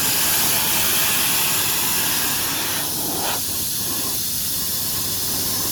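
Steady loud hissing noise with a low electrical hum underneath, which eases slightly about three seconds in.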